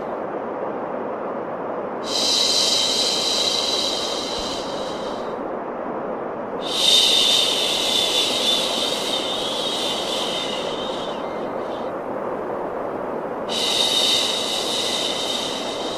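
Steady, deep-toned white noise for baby sleep, with a long shushing "shh" laid over it three times, each lasting a few seconds.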